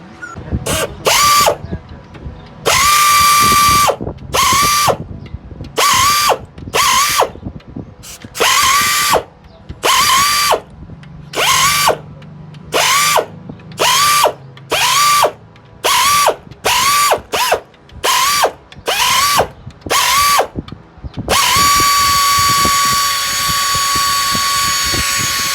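Power tool, such as an air ratchet or impact driver, spinning up in about seventeen short bursts, each rising quickly to a steady whine and stopping. Near the end it runs steadily for about four seconds.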